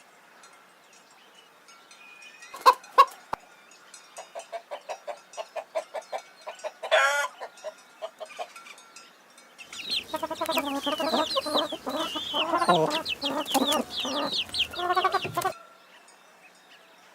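Chickens clucking: two sharp clicks about three seconds in, then a hen clucking in a steady run of short calls, followed by several chickens clucking and squawking over one another for about six seconds before it stops suddenly.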